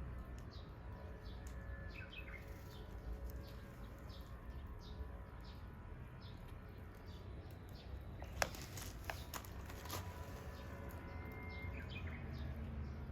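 Wood campfire crackling with scattered small pops and one sharper snap about eight seconds in.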